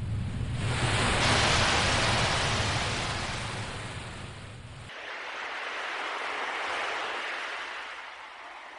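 Ocean waves washing in: one swell builds to a peak a second or two in and ebbs away, then a second, softer swell follows. The deep rumble underneath cuts off abruptly about five seconds in.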